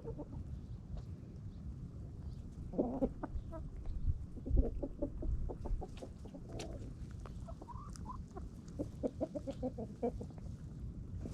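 Domestic hens clucking as they feed, with short scattered calls, one rising call and a quick run of clucks near the end, over a steady low rumble.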